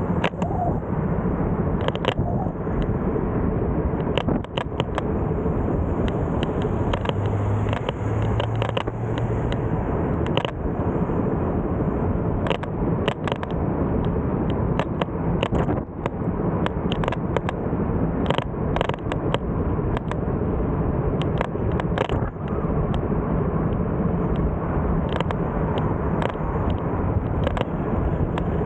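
Steady rushing road and wind noise of a moving bike, with many sharp clicks and rattles scattered through it. A brief low hum sounds about a quarter of the way in.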